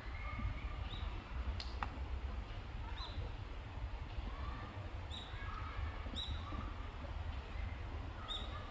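Small birds calling: short high chirps, each dropping at the end, every second or two, with softer twittering calls in between. A steady low rumble runs underneath, and two sharp clicks come about two seconds in.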